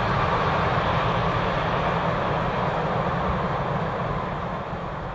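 Steady rumble of a passenger train's wheels running on the rails at speed, with no engine note, fading out near the end.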